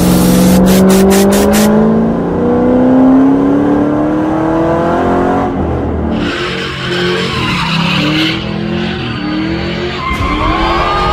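Car engine accelerating hard, its pitch climbing, dropping at a gear change and climbing again, followed by wavering tyre squeal near the end.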